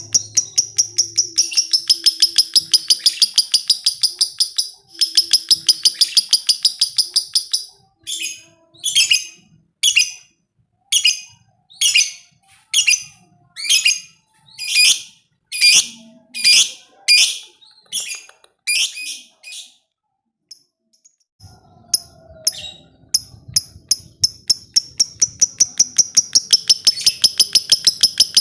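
Lovebird giving its 'ngekek' chatter: a fast, loud train of sharp, high chirps. About 8 seconds in it breaks into separate shorter calls roughly one a second. After a short pause near 20 seconds, the rapid chatter picks up again.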